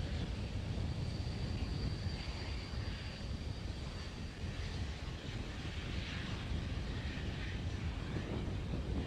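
Steady low rumble of outdoor ambience like wind on a microphone, with a faint thin high tone that starts about a second and a half in and lasts about three seconds.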